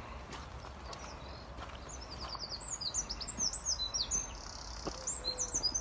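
A songbird singing: a quick run of high, sliding chirping notes starting about two seconds in, over a steady low outdoor rumble.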